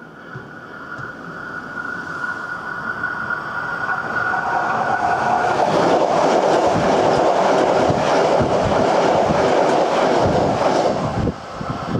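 Hankyu electric train approaching with a high, steady whine, growing louder. It then passes close by at speed for about five seconds, its wheels clattering over the rail joints.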